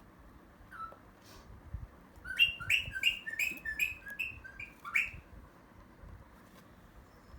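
Pet parrot giving a quick run of about eight short calls, each rising sharply in pitch, about three a second, starting a little over two seconds in, after a single call near the start.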